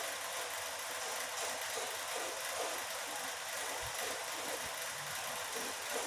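Steady background hiss-like noise, with no distinct sound standing out.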